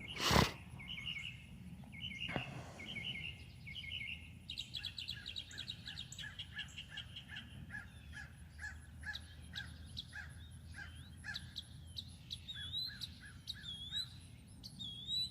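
Several wild songbirds singing and chirping: short repeated trills at first, then a fast run of repeated chirps, and rising whistled notes near the end. A single sharp knock sounds just after the start.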